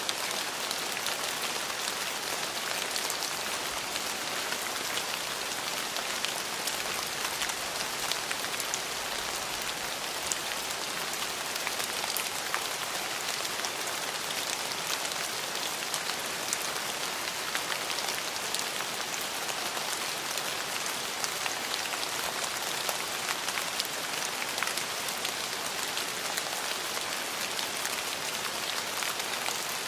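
Steady heavy rain: a dense, even hiss with individual drops ticking through it, and no thunder.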